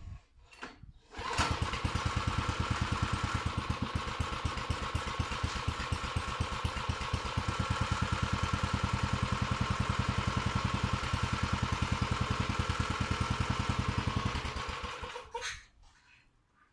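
Small water pump engine being test-run after repair: it catches about a second in, runs steadily with even, rapid firing pulses, and is shut off near the end.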